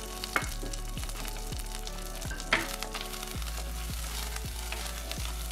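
Peanuts and curry leaves sizzling in hot oil in a black pot, stirred with a wooden spatula, with a couple of sharp clicks. Light background music with a steady beat plays underneath.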